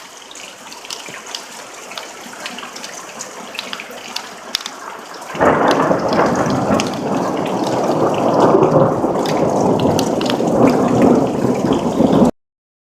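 Thunderstorm: steady rain with drops ticking, then, about five seconds in, a sudden loud rumble of thunder that goes on for about seven seconds before the sound cuts off abruptly.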